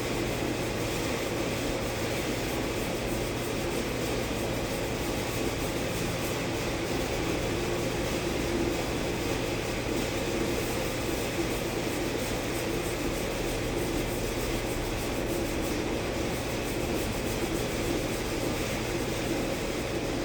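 Steady mechanical hum and hiss, like a fan or similar machine running, with no clear rhythm.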